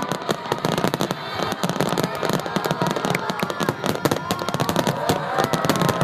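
Aerial fireworks bursting and crackling in a rapid, continuous barrage of many overlapping bangs and cracks.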